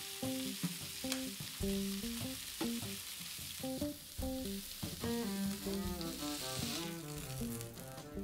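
Chicken and prawn skewers sizzling on a hot grill pan, an even hiss that fades out about seven seconds in, under background music of a melody of short notes.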